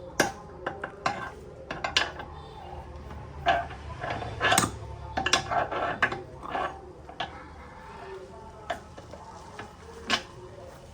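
Metal tools and small metal parts clinking and clattering irregularly, a dozen or so separate knocks, while a diesel tiller is worked on.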